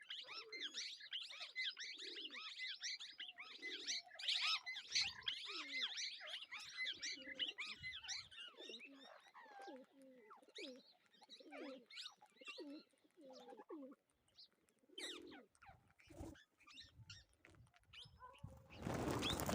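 A flock of birds calling: dense high chirping for about the first half, thinning out after that, with lower curved calls underneath. A short loud burst of noise comes near the end.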